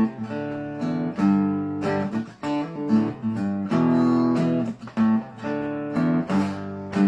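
Acoustic guitar strumming a chord pattern, with the chords changing about once a second: the instrumental intro of a song, before the vocals come in.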